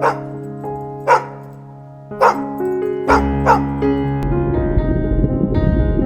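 Background music with five short, sharp animal calls in the first four seconds, each about a second apart, the last two close together.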